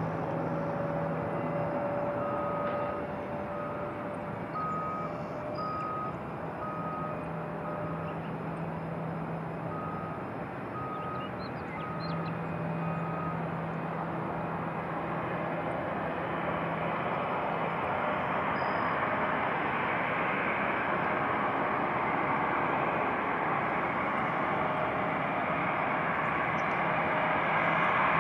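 A vehicle's reversing beeper sounds a single-pitched beep about once a second, in two runs separated by a short pause. Under it runs a steady rumble of engine noise that swells toward the end.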